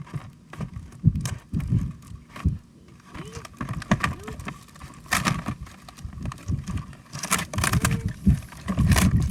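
Plastic toy packaging and toy parts being handled: an irregular run of knocks, clicks and rustles, with a few short sliding squeaks about three to four seconds in.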